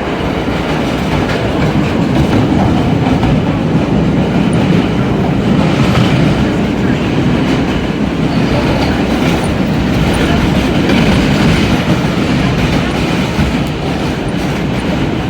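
R32 subway car running between stations, heard from inside the car: a steady, loud rumble of wheels on rail that continues throughout.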